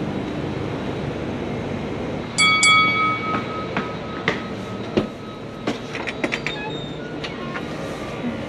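A steady rumble of background noise. About two and a half seconds in, a sharp metallic clang rings on for a second or so, and a scatter of clicks and knocks follows.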